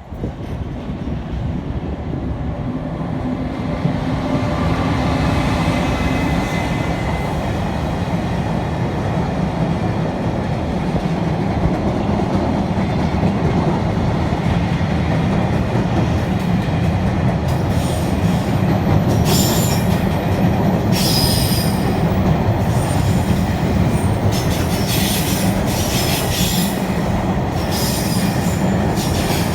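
A train running past on the rails, growing louder over the first few seconds and then holding a steady heavy rumble. In the second half, high squeals and rattles from the wheels come and go over it.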